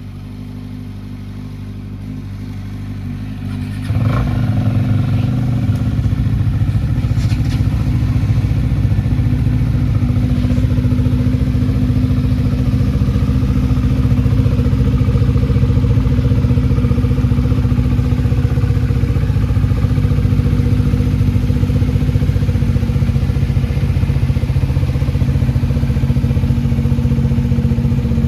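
Kawasaki Z900 inline-four engine running steadily at idle. About four seconds in it abruptly gets louder and stays at that level.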